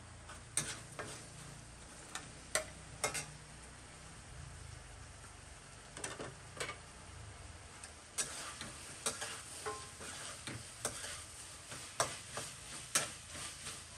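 Carrot sticks frying in a wok, with a metal spatula clinking and scraping against the pan. A few sharp knocks of utensils and plates come first; about eight seconds in, a steady sizzle rises under frequent spatula clicks.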